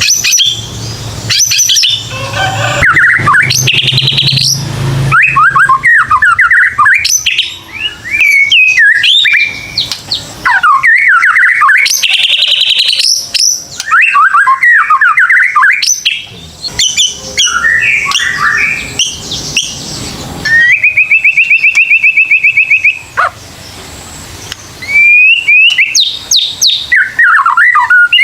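White-rumped shama (murai batu) singing a fast run of varied whistled phrases with rising and falling glides. About three-quarters of the way through it gives a rapid buzzy trill, then after a short pause a final burst of phrases.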